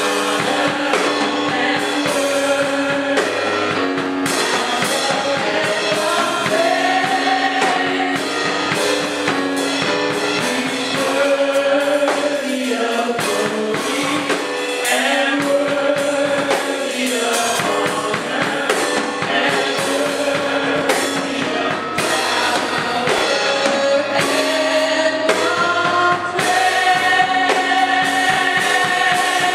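Gospel music with singers and a drum kit playing a steady beat.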